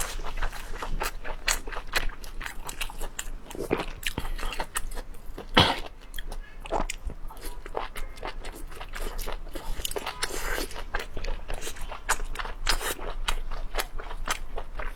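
Close-miked mukbang eating: wet chewing, biting and lip smacks in a rapid, uneven run of short clicks, with one louder smack about five and a half seconds in.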